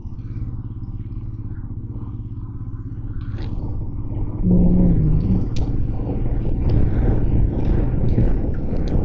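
Motorcycle engine running under way, its steady hum growing louder over the first few seconds as the bike picks up. About halfway through, the sound jumps louder with a short low tone, then stays rougher with road and traffic noise.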